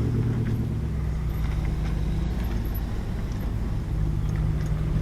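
Vehicle engine and road noise heard from inside the cab while driving slowly: a steady low hum.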